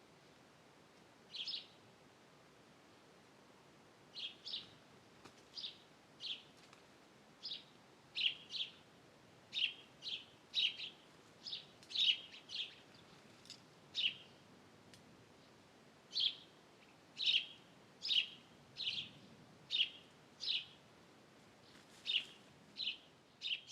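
A bird giving short, sharp chirps, one early and then repeated at about one to two a second for most of the stretch, over a faint steady background hiss.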